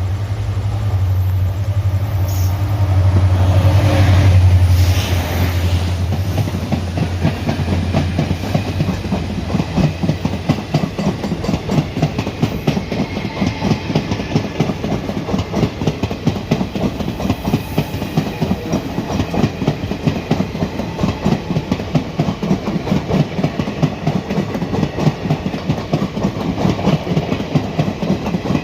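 Train wheels rolling over rail joints in a fast, continuous clickety-clack as coaches pass close by. For the first several seconds a steady low drone runs under it, loudest about four seconds in and gone by about ten seconds in.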